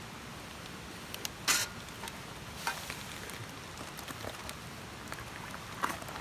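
Wood campfire burning with a steady hiss and crackle, and a few sharp pops, the loudest about one and a half seconds in and another pair near the end.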